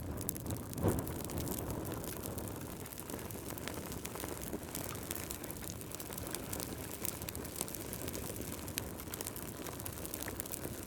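Wood fire burning in a fireplace, crackling with many small sharp pops over a steady low rush, and one louder pop about a second in.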